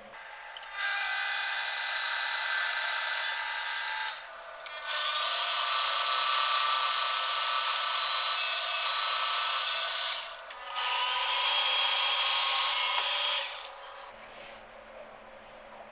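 A drill press boring into a wooden jig piece in three runs of a few seconds each, with short pauses between; the holes are for magnets.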